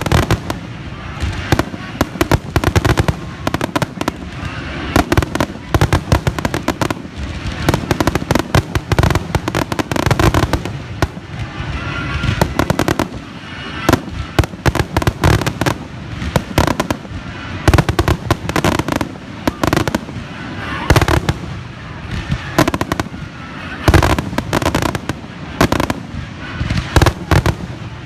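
Fireworks finale barrage: aerial shells bursting in rapid, overlapping succession, a continuous run of booms and sharp cracks with no pause.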